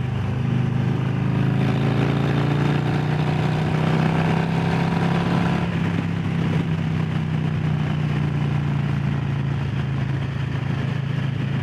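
Harley-Davidson Low Rider S's Milwaukee-Eight V-twin running on the road, its note rising steadily from about one second in as it accelerates, then holding steady from about six seconds in.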